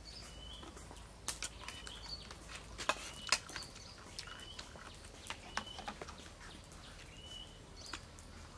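Short bird chirps repeating roughly once a second, over scattered sharp clicks and smacks of someone eating, the loudest a little after a second and around three seconds in.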